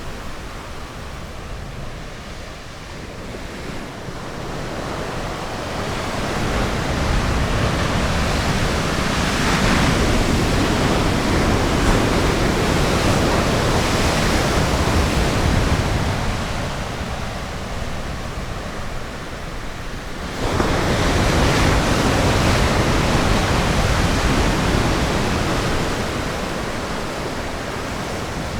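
Ocean surf washing on a beach, a steady roar of waves that swells and eases, with a sudden louder surge about twenty seconds in.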